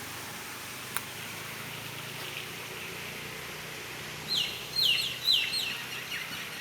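A bird calling: three loud, short calls about half a second apart, each sliding down in pitch, starting about four seconds in, then a few fainter calls. A steady hiss lies underneath, with a single sharp click about a second in.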